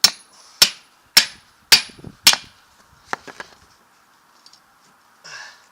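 Hammer striking metal five times, about two blows a second with a thin metallic ring, then a few lighter taps: a new U-joint bearing cap being driven into a truck drive shaft yoke.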